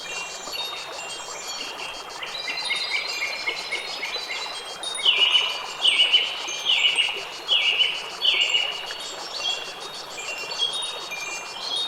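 Wind chimes ringing over a steady hiss, with a bird calling five times in quick succession in the middle, each call a short falling note, the loudest sound.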